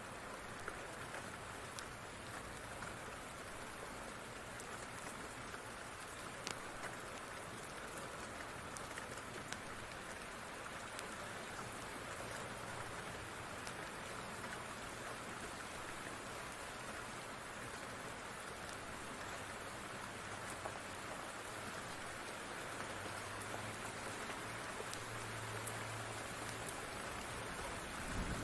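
Steady rain falling, an even hiss with scattered small sharp ticks.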